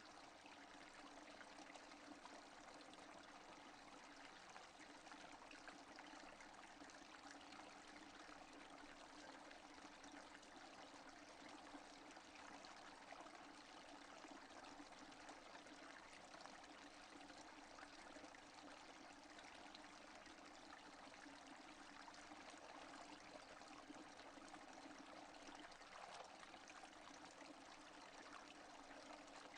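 Steady rain falling, faint and even, with no thunder.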